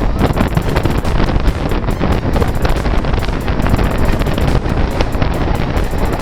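A train running at speed: a steady, loud rush of wheel and rail noise mixed with wind buffeting the microphone.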